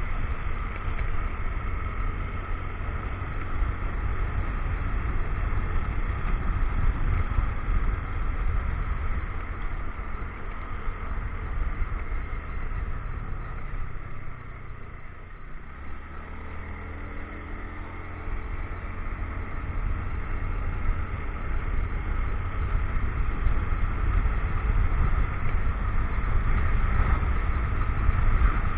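Motorcycle running along a road, its engine noise mixed with heavy wind on the microphone. About halfway through it eases off and goes quieter, then the engine note climbs again as it speeds back up.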